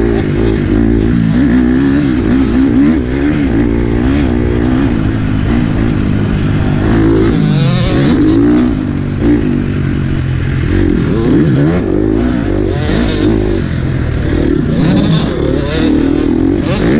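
Motocross bike engine ridden hard, its pitch rising and falling over and over with throttle and gear changes.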